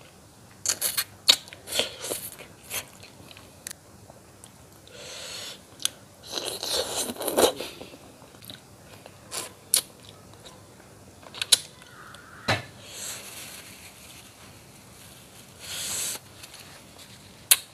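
Close-up mouth sounds of a man eating patin catfish head curry by hand: chewing, with many short, sharp smacks and clicks and a few longer wet, noisy stretches.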